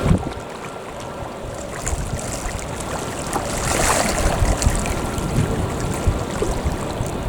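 Wind buffeting the microphone over the steady wash of sea waves, with irregular low rumbling gusts.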